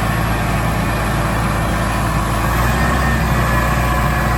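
Engine of an off-road vehicle running steadily under load during a tow recovery, a low drone that shifts slightly about two and a half seconds in.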